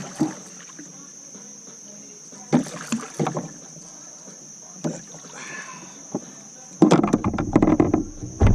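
Splashes and knocks of water and gear against a fishing kayak while a just-hooked channel catfish is landed, coming in short bursts with the loudest flurry near the end. A steady high insect drone runs behind.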